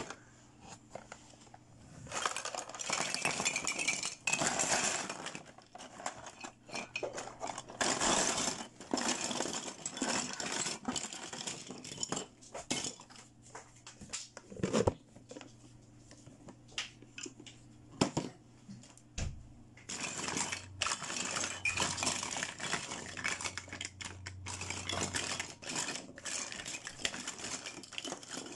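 Hard plastic toy medical instruments clattering and clicking as they are taken out of the carry case and set down. The clatter comes in several busy spells with quieter gaps between.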